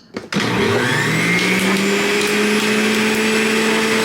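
Electric juicer motor switched on about a third of a second in, its whine rising as it spins up and then running steadily.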